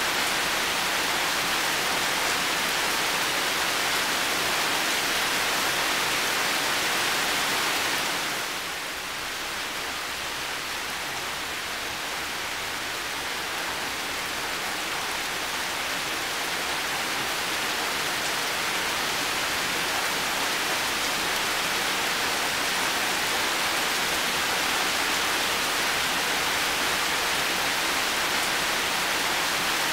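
Heavy rain falling steadily, a dense even hiss. It drops back a little about eight seconds in, then builds up again over several seconds.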